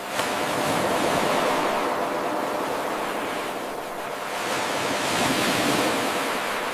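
Ocean surf washing in, swelling twice and easing back. The sound jumps up suddenly just after the start, at the seam of an 8-second wave recording that repeats in a loop.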